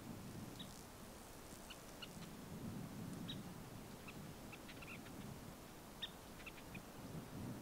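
Faint, scattered short bird chirps, a few quick notes at a time, over a low background rumble.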